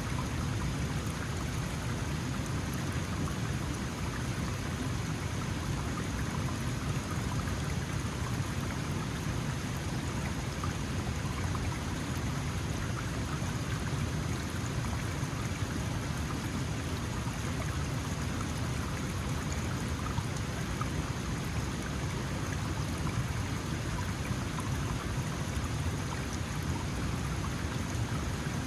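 A small mountain stream flowing, a steady even rush of water.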